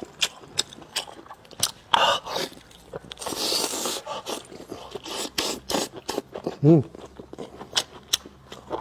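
Close-up eating sounds of a person gnawing and chewing lamb spine meat: wet mouth clicks and smacks, with a longer sucking noise about three seconds in. A short hummed "mm" of enjoyment comes about two-thirds of the way through.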